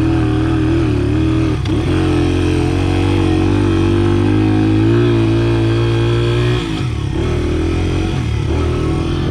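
Dirt bike engine running at a fairly steady speed, with a brief dip about one and a half seconds in and the engine note falling away about two-thirds of the way through.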